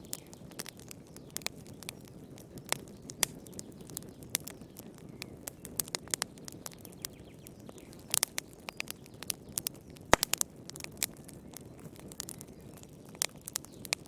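Campfire burning, wood crackling and popping in sharp, irregular snaps over a low steady hiss, with a cluster of pops around the middle and one louder snap a little later.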